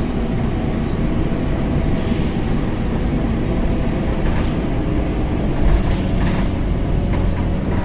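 Scania K270UB diesel city bus under way, heard from inside the cabin: a steady engine and road rumble with a faint engine hum, a few light rattles and a brief louder bump a little past the middle.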